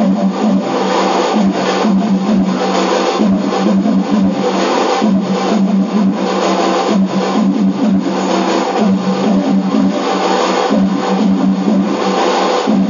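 Passenger train running, heard from inside the carriage: steady running noise with a constant low hum and irregular rattling and clicking of the wheels and coach.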